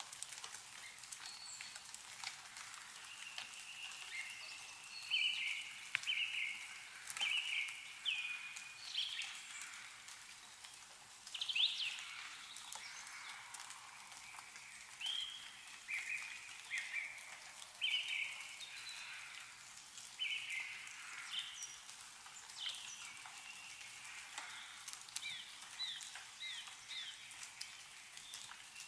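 Small birds calling repeatedly in short chirps, over scattered drips of meltwater falling from snowy trees.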